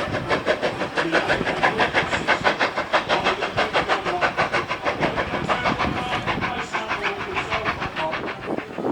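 A train running past at speed, with a fast, even beat of about five or six strokes a second.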